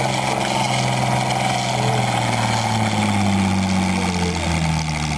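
Tractor engine running hard under load during a pull, its pitch sinking slowly and steadily as it lugs down.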